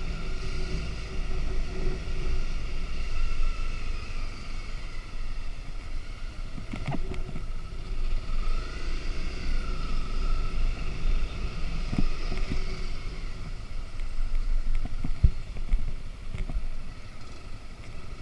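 Motorcycle engine running on the move, with wind buffeting the microphone; the engine note rises and falls once about halfway through.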